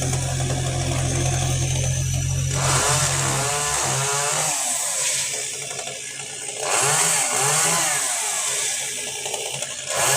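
Chainsaw running steadily at a low idle, then throttled up with a wavering pitch in two spells, about two and a half seconds in and again about seven seconds in, as it cuts into the tree.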